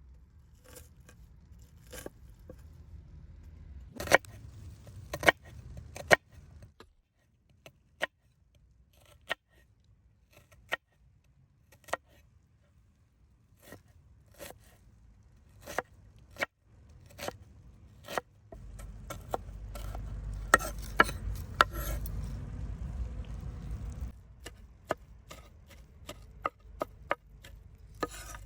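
Knife strokes against a cutting board while food is cut by hand: single sharp knocks, irregular and roughly a second apart. Past the middle there is a stretch of low rumbling noise.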